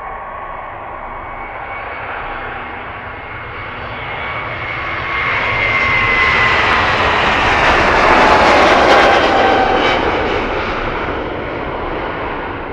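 Jet airliner's engines as it passes close by, the noise swelling to a peak about eight seconds in and then fading, with a whine that drops in pitch as the aircraft goes past.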